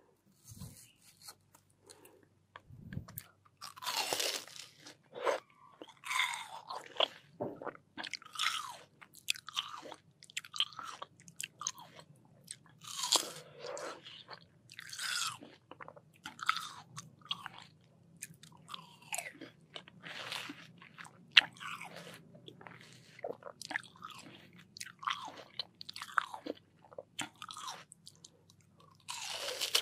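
Close-miked biting and chewing of crisp, juicy watermelon: wet crunches come in irregular bursts, several every couple of seconds.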